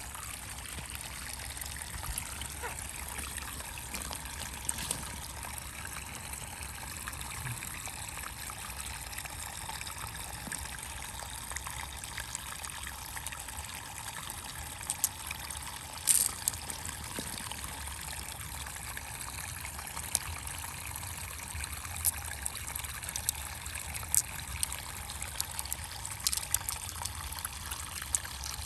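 Water trickling and splashing steadily, with a few sharp clicks or taps scattered through it.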